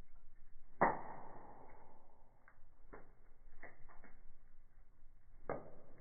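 Firewood burning in a fireplace, crackling: one loud pop about a second in that rings on briefly, then scattered smaller crackles.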